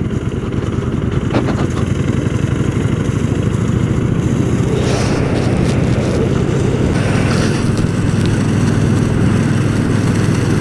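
Kawasaki Vulcan Drifter's liquid-cooled V-twin engine running as the motorcycle is ridden, a steady throbbing that grows slightly louder over the first few seconds.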